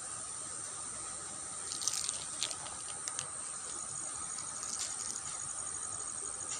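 Shallow ditch water with a few small splashes and drips from about two to three seconds in, and another near five seconds, over a steady high insect drone.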